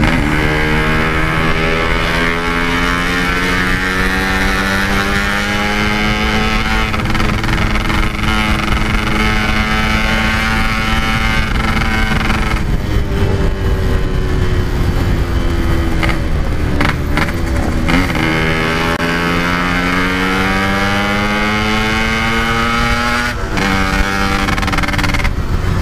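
Yamaha RX-King two-stroke single-cylinder engine and exhaust under way, its pitch climbing slowly as the bike accelerates. The pitch drops about 13 s in, climbs again from about 18 s, and drops once more near the end.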